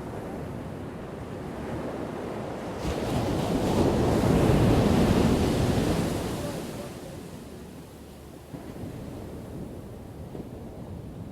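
Ocean waves crashing on a shore: a wave builds about three seconds in, breaks loudly, then washes out and dies back to the steady hiss of surf.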